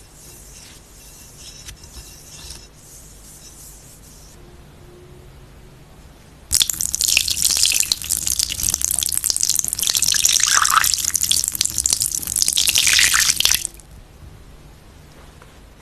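Water running in a loud, steady rush that starts suddenly about six seconds in and cuts off abruptly some seven seconds later, with a faint hiss before it.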